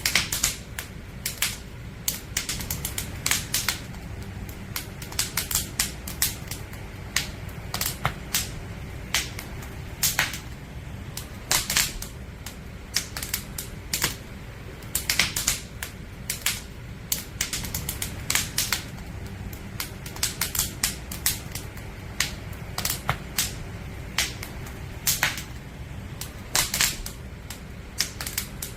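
Firewood burning in a campfire, crackling with irregular sharp pops and snaps over a steady low rumble of the flames.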